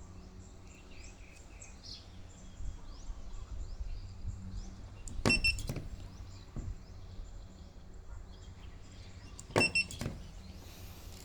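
Battery-cell spot welder firing on doubled 0.2 mm nickel strip, twice and about four seconds apart: each weld is a sharp snap with a brief high tone. Faint bird chirps and a low hum in the background.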